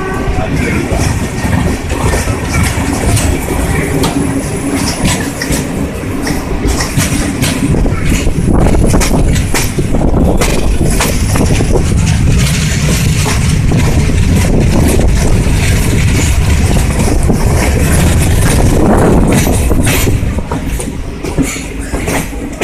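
Passenger train running on the rails, a loud steady low noise from the wheels and carriage with frequent sharp clicks.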